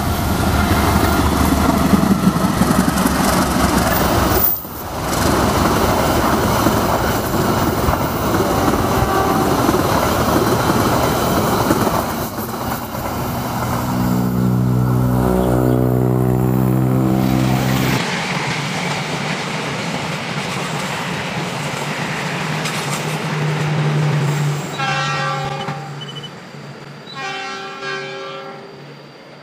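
A passing train with loud, rumbling wheel and rail noise, then a long sounding of the train's horn about halfway through. The sound changes suddenly after that. Near the end, a horn sounds twice more over a steady low tone.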